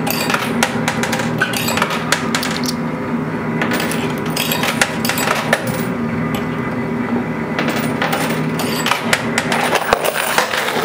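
Quarters clinking and clattering in a coin pusher arcade machine: many small metallic clicks, over a steady low hum.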